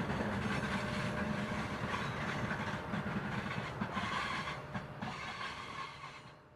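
Freight train hauled by EMD diesel locomotives running past, a low engine drone with clicks of wheels over the rail joints, dying away near the end.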